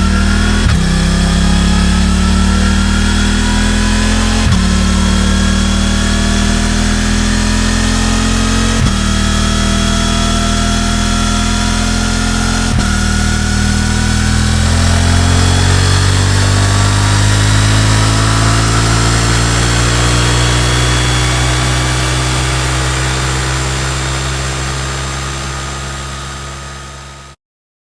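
Suzuki GSX-8T's 776 cc parallel-twin engine pulling hard up through the gears, its pitch rising in steps with a gear change about every four seconds. It then holds a steady pitch while fading away, and cuts off abruptly near the end.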